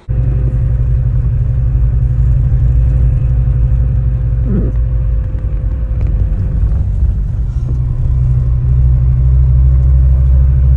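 Bus engine running with a loud, steady low drone that starts suddenly.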